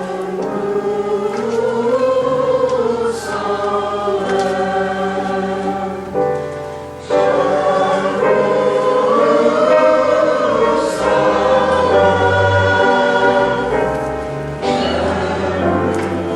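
Choir singing a slow, sustained passage of a church cantata, the phrases breaking off briefly about six and fourteen seconds in.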